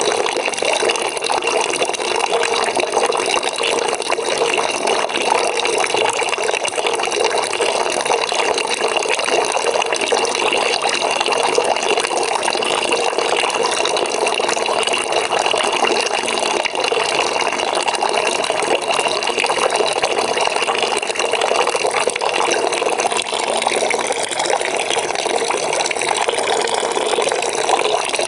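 Water running steadily into a bucket, a continuous gushing splash into the water already in it.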